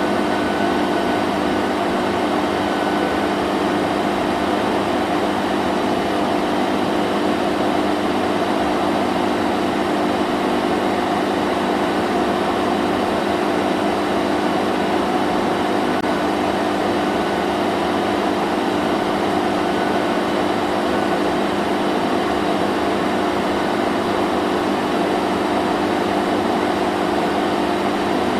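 Vacuum cleaner running steadily: a constant motor hum over a broad rushing hiss, with no change in pitch or level.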